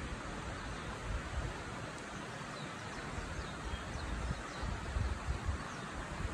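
Steady rushing noise of Ogawa Falls, a waterfall, with uneven wind buffeting on the microphone that swells about five seconds in.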